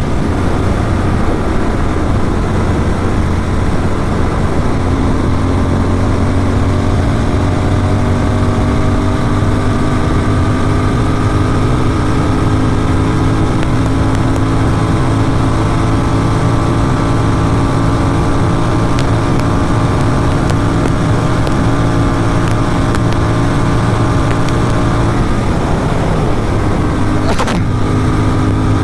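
Motorcycle engine through an aftermarket exhaust, held at high highway speed, its pitch climbing slowly as the bike gathers speed. Near the end the engine note breaks off briefly, as on a gear change or throttle lift, then picks up again.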